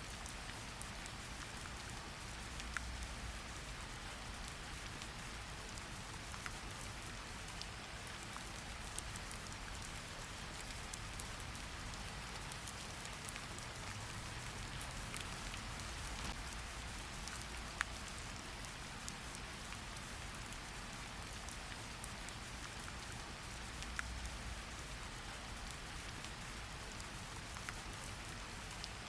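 Steady rain falling, an even hiss with scattered drips and patters landing on a surface, and a soft low rumble underneath.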